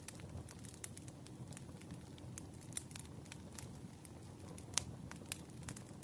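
Campfire burning, with a steady low rumble and irregular sharp crackles and pops from the burning wood; the loudest pop comes near the end.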